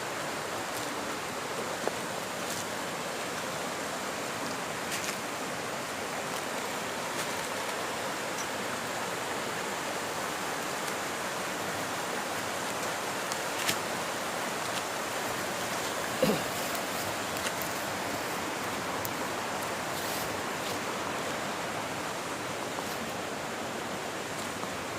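A steady, even rushing noise, broken by a few sharp clicks.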